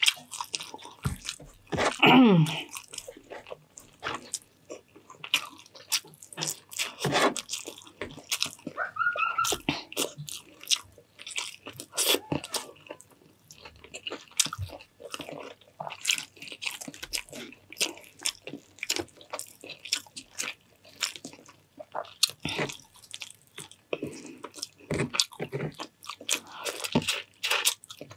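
Close-miked eating sounds: wet chewing with crisp crunches and lip and mouth clicks, many irregular small bites of fried rice and smoked fish. About two seconds in there is a louder short sound that falls in pitch.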